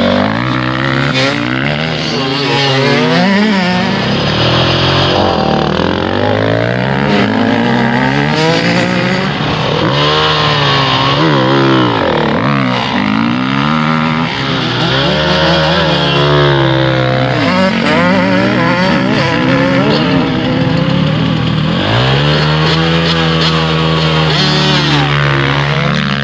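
Motorcycle engines revving and accelerating, several overlapping, their pitch repeatedly rising and dropping. In the last few seconds one engine holds a steadier note.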